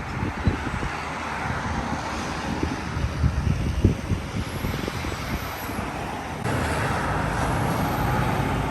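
Outdoor road traffic noise with irregular low rumbles, growing louder about six and a half seconds in as a vehicle comes closer.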